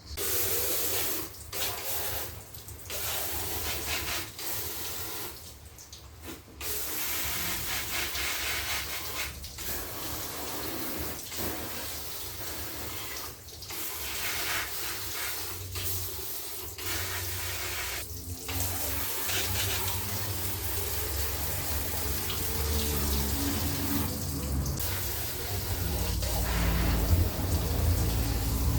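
Water spray hosing down the front of a car, a steady hiss that cuts off briefly several times as the spray is stopped and started.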